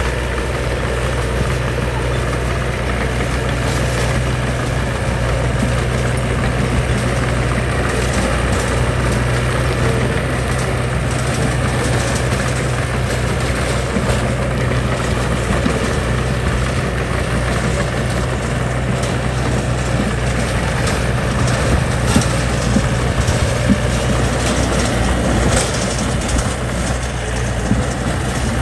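Heavy diesel engine of construction machinery running steadily, with occasional knocks and clanks over it.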